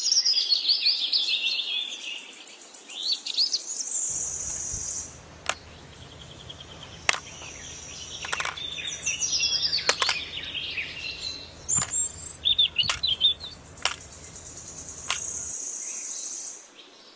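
Small birds chirping and twittering in quick high calls, with several sharp clicks scattered through. A faint low hum starts about four seconds in and stops shortly before the end.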